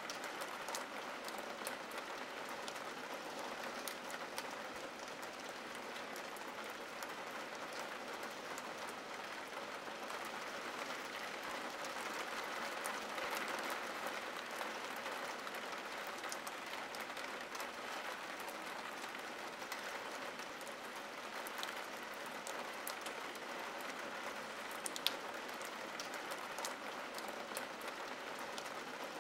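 Steady rain falling on window glass, an even hiss with scattered sharp ticks of single drops, one more distinct tick about 25 seconds in.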